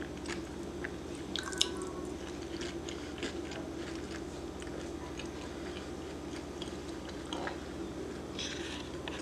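A person chewing a bite of fried saltfish fritter dipped in tamarind sauce: scattered small mouth clicks, one sharper about a second and a half in, over a steady low hum.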